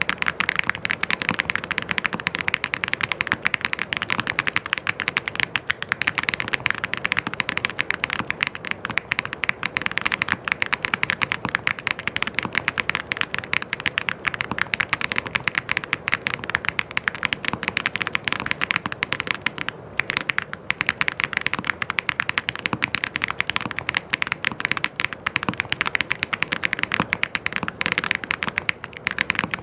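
Fast, continuous typing on a mechanical keyboard: a dense stream of key clicks and clacks, with a brief pause about two-thirds of the way through.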